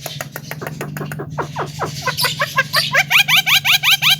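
Male Javan myna (jalak kebo) chattering: a fast run of clicks and short falling notes, turning about halfway into a quicker series of loud rising chirps. A low steady hum runs underneath.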